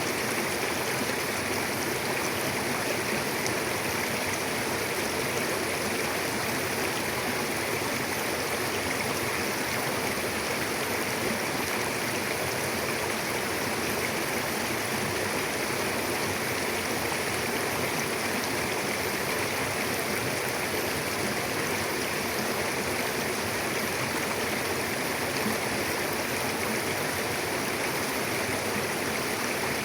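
Mountain river flowing over rocks: a steady, even rush of running water with no change.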